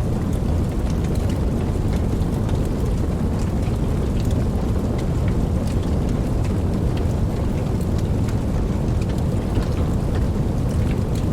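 Steady rain: a constant low rushing wash with scattered individual drops ticking through it.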